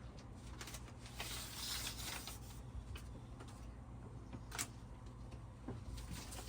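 Faint handling noises as a soundbar mount is positioned against a wall: a scraping rustle about a second in that lasts a second or so, and one sharp click near the middle, over a low steady hum.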